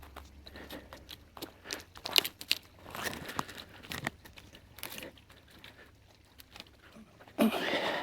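Dry twigs and brush crackling and snapping as kindling is gathered by hand, a scatter of sharp cracks with a louder rustling burst near the end.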